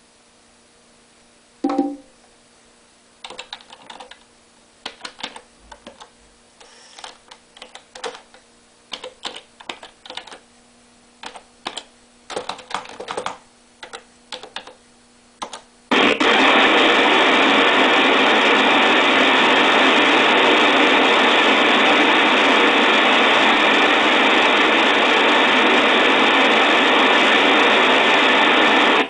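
Laptop keys tapped irregularly for about twelve seconds as a password is typed, then at about sixteen seconds the laptop's speakers break into a loud, steady crackling static. The noise is the AC97 / Intel ICH6 sound hardware misbehaving at session start under ALSA without PulseAudio.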